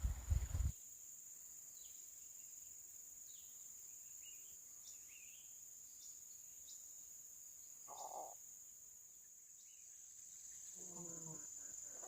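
Insects chirring steadily at a high pitch with faint bird chirps over them, after a low rumble that cuts off within the first second. A short pulsed animal call comes near the end.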